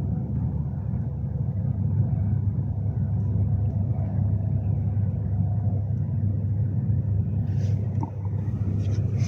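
Steady low rumble of a Class 390 Pendolino electric train running along the line, heard from inside the carriage, with a faint steady hum above it. A few faint brief clicks come near the end.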